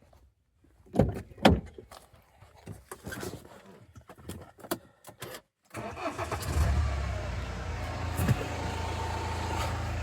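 A few sharp knocks and clicks, then about six seconds in the 2009 BMW 320d's four-cylinder diesel engine starts and settles into a steady idle.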